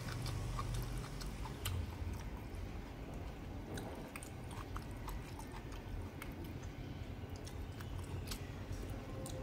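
A person chewing food close to a clip-on microphone, with wet mouth sounds and scattered light clicks of a fork on the dish, over a low steady hum.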